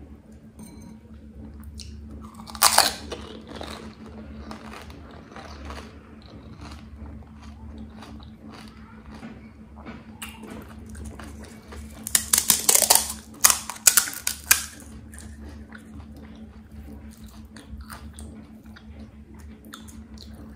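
Close-miked eating of pani puri: crisp, hollow puri shells crunching as they are bitten and chewed, with one loud crunch about three seconds in and a run of loud crunches in the middle. A steady low hum lies underneath.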